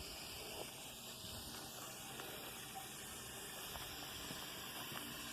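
Waterfall rushing faintly as a steady, even hiss, with a few soft ticks.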